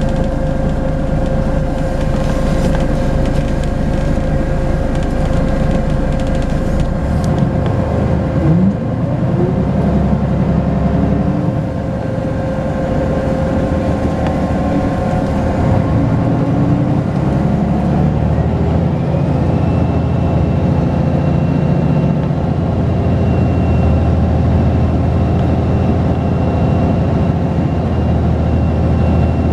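Volvo B10BLE bus's diesel engine running under way, its note shifting as it pulls, with a sweep upward about a third of the way in. A high turbocharger whistle rises and then holds steady over the second half.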